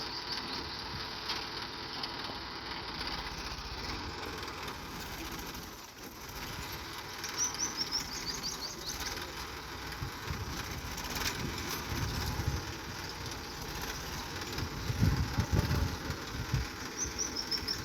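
Steady outdoor background noise with a small bird's quick falling series of chirps, heard twice. Irregular low rumbling bursts grow louder in the second half.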